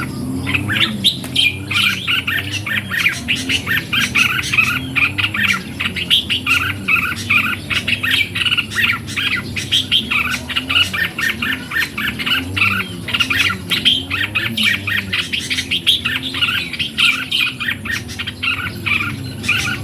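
Red-whiskered bulbuls calling and singing: a dense, unbroken run of short chirping phrases.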